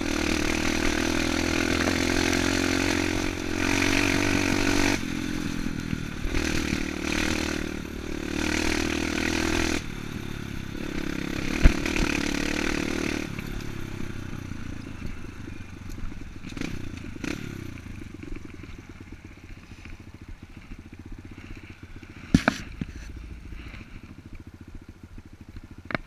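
Enduro dirt bike engine running loudly under throttle, its pitch shifting a few times, then dying away about halfway through. Afterwards a quieter background remains, with a couple of sharp knocks.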